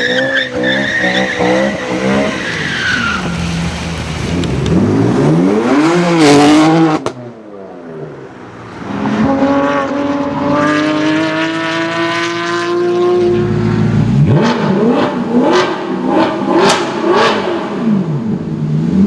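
High-performance car engines revving and accelerating hard, with a high tyre squeal over the first few seconds. About seven seconds in the sound cuts away to another car pulling off with a long rising engine note, followed by a series of sharp throttle blips.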